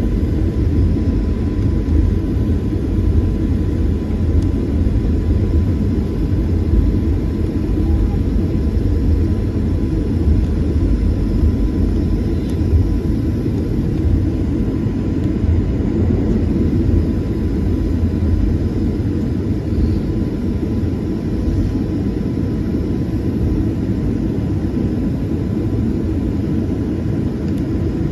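Steady low rumble of an airliner, with a faint steady high whine running under it.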